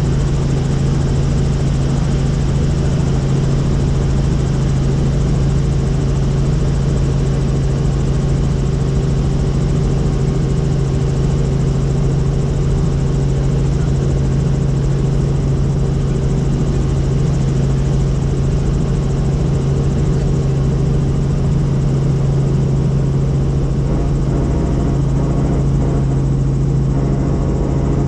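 Helicopter in flight, its rotor and engine noise heard from on board: a steady, loud low hum over an even wash of noise.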